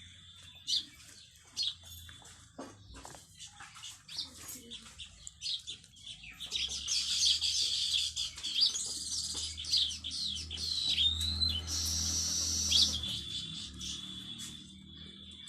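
Pet Alexandrine parakeet chirping and chattering in a run of quick, high calls that starts about halfway through, with scattered small clicks in the first few seconds.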